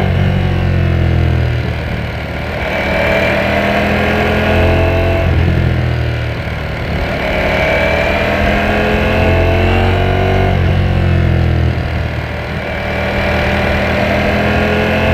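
Ducati Panigale V4S's 1103 cc V4 engine under way, its revs climbing and then dropping back about three times as the bike accelerates and rolls off.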